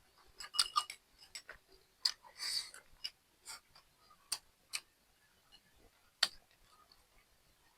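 Eating sounds: a scattered series of sharp clicks and taps of utensils on dishes, with a brief crunchy rustle about two and a half seconds in.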